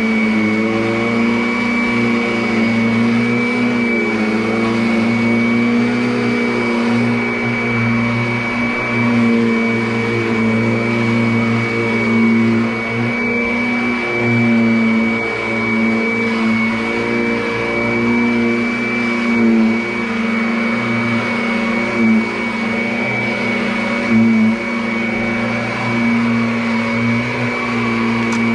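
Vacuum cleaner motor running steadily, a strong droning hum under a steady high whine, wavering slightly in pitch and loudness as it is pushed over the floor.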